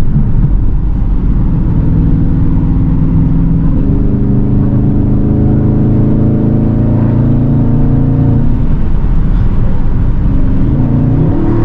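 Straight-piped Dodge Scat Pack's 392 HEMI V8 exhaust droning under way. Its note steps up in pitch about four seconds in and holds, drops back a few seconds later, then climbs again near the end as the car accelerates.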